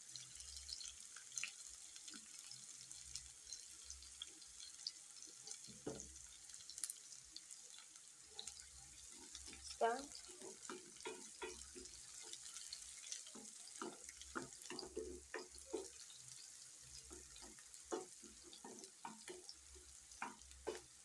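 Chopped onions, spring onion and garlic sizzling gently in oil in a steel pan. From about ten seconds in, a wooden spoon scrapes and knocks against the pan as the mixture is stirred.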